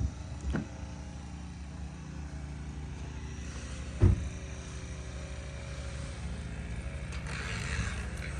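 A car engine idling steadily, with a sharp thump about four seconds in and a fainter knock near the start.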